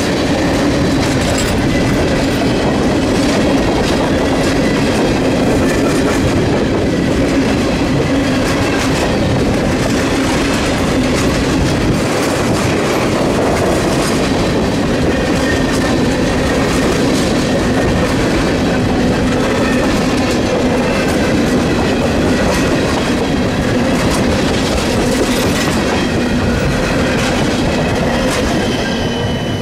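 Freight train of tank cars rolling past close by: a steady rumble of wheels on rail with a continual clickety-clack over the rail joints.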